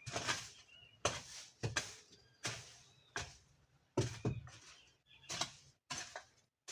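Repeated strokes of a hand tool cutting and scraping weeds and soil, about one stroke every second or less, unevenly spaced.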